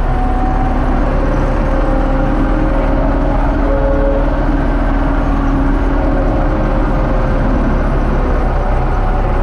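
Diesel engine of a U650 tractor running steadily, a loud even rumble with no change in speed.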